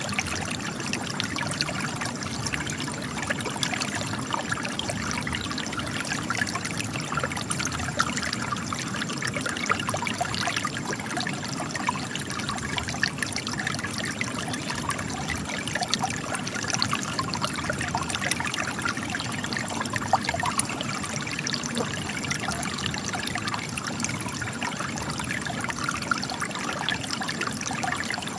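Spring water trickling and splashing steadily as it gushes from cracks in rocks, many small drips and splashes over a constant watery rush.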